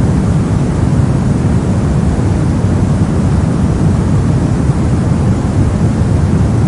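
Steady synthetic noise weighted toward the low end, a deep even rumble like brown noise, with no changes or events.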